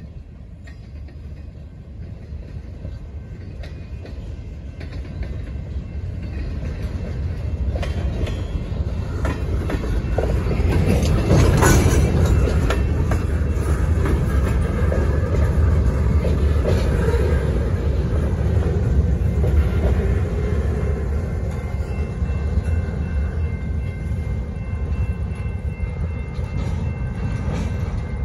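A freight train's boxcars rolling past, their wheels clacking over the rail joints. The rumble grows louder to a peak about twelve seconds in, then eases off slightly.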